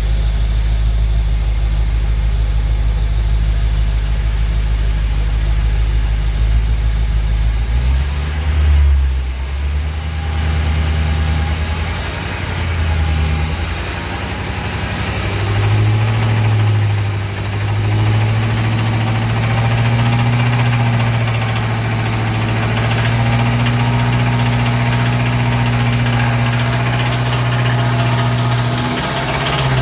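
BMW M5's S63TU twin-turbo V8 running. It holds a steady low note at first; about eight seconds in the engine speed shifts, with a couple of brief rises and dips, then settles into a steady, higher note.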